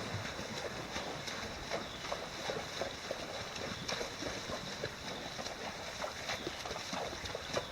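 Horses walking through a shallow, rocky creek: hooves splash and knock on stones in an irregular patter over the sound of running water.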